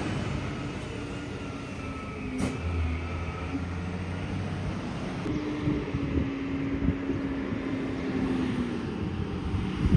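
Garbage truck's diesel engine running steadily, fading a little in the first second or so.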